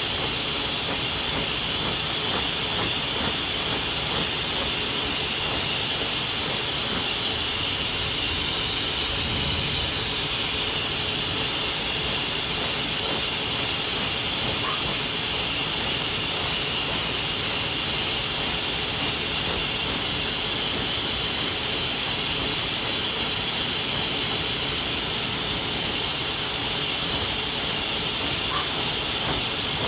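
Pet blow dryer running steadily, blowing a dog's coat out with a constant airy hiss.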